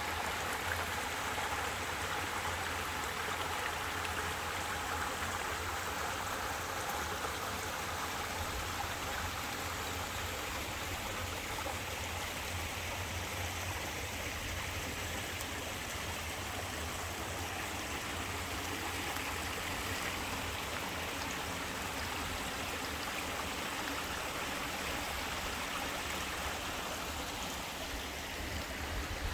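Small waterfall with a slightly low flow: water falling and splashing in a steady, gentle rush.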